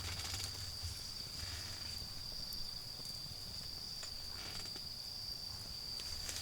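Autumn insects, crickets, chirring in one steady, unbroken high trill, with a few faint crackles from a low wood fire and a low rumble of distant road traffic underneath.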